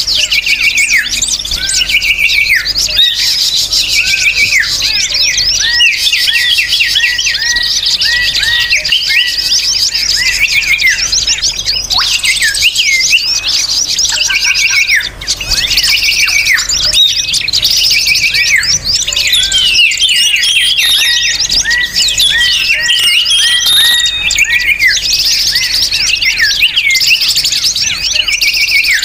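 Dense, overlapping chirping and twittering of many small songbirds, a busy, noisy bird-lure (pikat) chorus with no pause.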